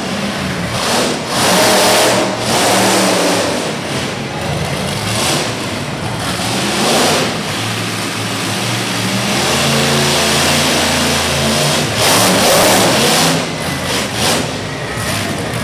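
Monster truck engine revving hard in repeated surges, loudest about two seconds in and again near the end, with a steadier stretch of running in between.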